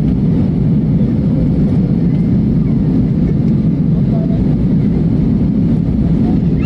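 Steady low drone of an airplane's engines and airflow heard from inside the passenger cabin.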